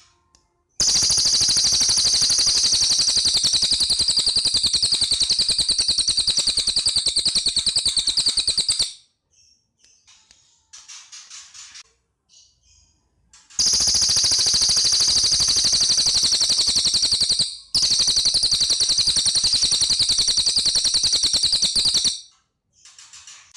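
Cililin bird singing in long, loud, very fast machine-gun-like rattling trills, high in pitch. Two long bursts are separated by a few seconds of fainter short chirps.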